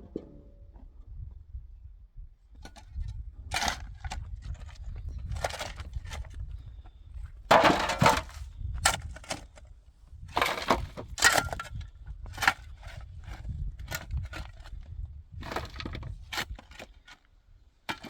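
Irregular cracking and crunching of something being broken, in about a dozen separate bursts, the loudest about eight seconds in, over a steady low rumble.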